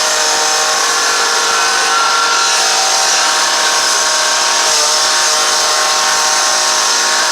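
A motor running steadily at high speed, a loud even whine with a hissing edge, dropping away right at the end.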